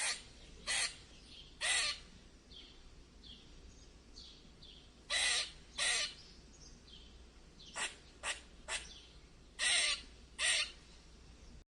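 A bird giving about ten harsh, rasping calls in uneven groups, with fainter short falling chirps in between.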